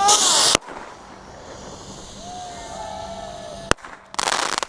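Fireworks going off: a loud hissing burst that cuts off suddenly about half a second in, a single sharp crack a few seconds later, and another hissing burst near the end.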